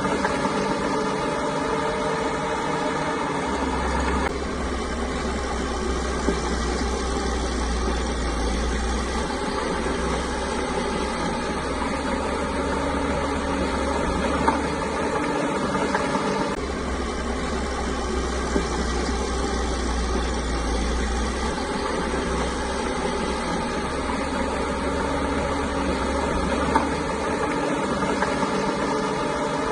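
Diesel engine of a Caterpillar bulldozer running steadily at work, its low drone swelling and easing every few seconds as the load changes, with a few brief knocks.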